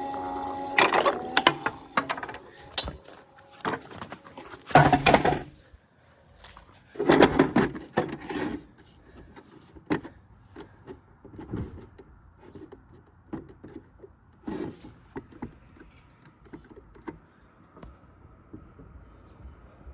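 A toy washing machine's small electric motor whines, rising in pitch and then holding steady, and stops about a second and a half in. A series of irregular plastic knocks, clatters and scrapes follows, loudest in three bunches in the first half.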